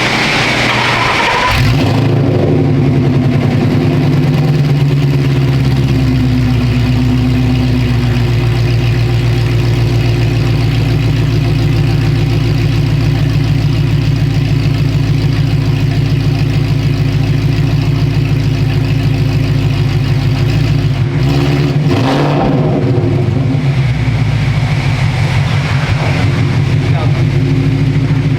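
A 2013 Mustang GT's 5.0 Coyote V8 runs loud through an exhaust dumped straight down after the X-pipe, with no mufflers. It comes in suddenly about a second and a half in and holds a steady, deep note. It changes briefly around twenty-one seconds in, then runs on harder toward the end, revved to about 2,000 rpm.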